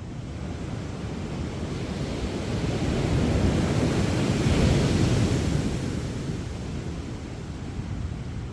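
Sea waves breaking on a sandy beach: one wave swells, crashes about four to five seconds in, and washes back, with some wind on the microphone.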